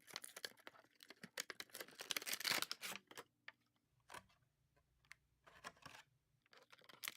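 Toy packaging being opened by hand: a dense run of small clicks, crinkles and tearing for about three seconds, then scattered clicks of plastic and cardboard being handled.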